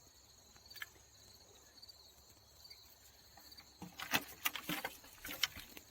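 Crickets chirring steadily in a high pitch, with a short flurry of rustling and crackling about four seconds in.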